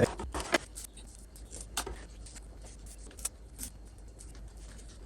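Kitchen items being handled and set down: a loud knock at the start, then scattered light clicks and clinks, over a low steady hum.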